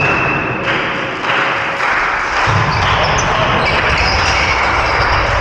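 Volleyball play on a gym court: the ball being hit and bouncing, with short sneaker squeaks on the floor, over a steady hall noise.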